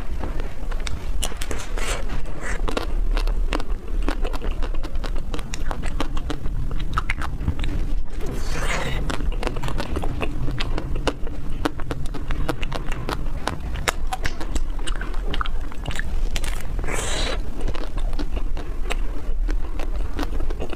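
Close-miked biting and chewing of a peach-shaped ice cream bar: many small crackles and wet mouth clicks, with two louder hissing sounds, about nine and seventeen seconds in. A low steady hum runs underneath.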